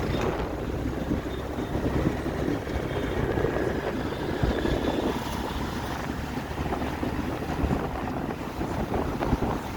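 Riding a scooter or motorbike through city traffic: a steady rush of wind buffeting the microphone over the low rumble of the engine and road.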